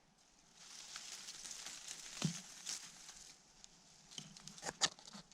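Faint rustling and crackling of dry leaves and twigs, with a few sharper clicks about two seconds in and near the end.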